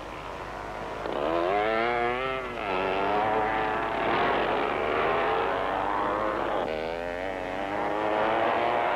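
Scrambles motorcycle engines revving hard, the pitch climbing and dropping again and again, with abrupt changes about two and a half and seven seconds in.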